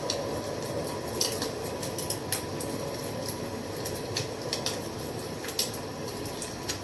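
Wood fire crackling: a steady rush of flames with irregular sharp pops and snaps.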